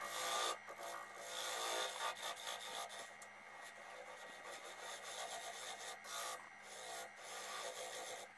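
Coarse sandpaper rubbing on an English walnut bowl as it spins on a wood lathe: a rasping rub that swells and eases with each pass, over the lathe's steady hum. The bowl is being sanded to clear torn-out grain.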